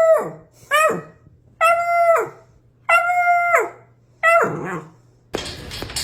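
A dog giving a run of long, loud calls about a second apart, each held on one pitch and then sliding down at the end. About five seconds in it cuts off abruptly and music takes over.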